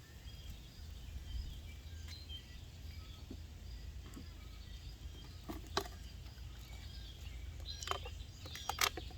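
Outdoor ambience: faint, scattered bird and insect calls over a steady low rumble, with a few sharp clicks about halfway through and a cluster of clicks near the end.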